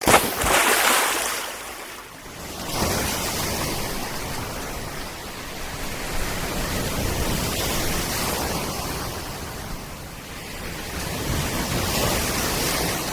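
Sea surf breaking and washing on the shore, a steady rushing noise that is loudest at the start, dips about two seconds in and then builds again.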